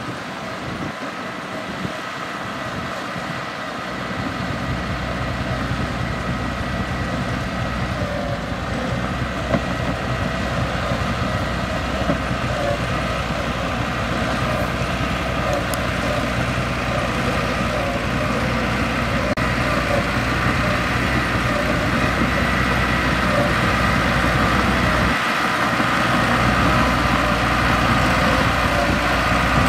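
Mitsubishi bulldozer's diesel engine running steadily under work, a deep rumble filling in about four seconds in and the whole sound growing gradually louder.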